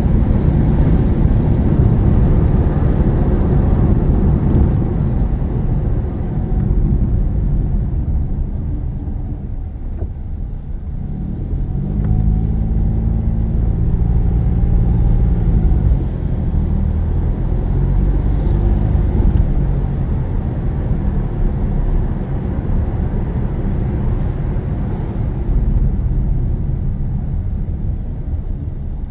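Car driving, heard from inside the cabin: steady low engine and road rumble. About twelve seconds in the engine note rises under acceleration, then drops away a few seconds later.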